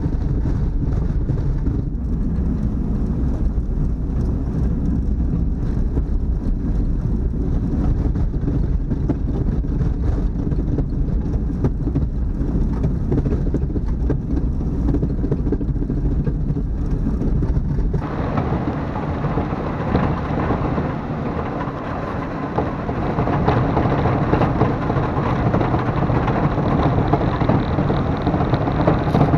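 Plow car's engine running steadily with a low rumble. About eighteen seconds in the sound changes abruptly to a louder, harsher rushing noise over the engine.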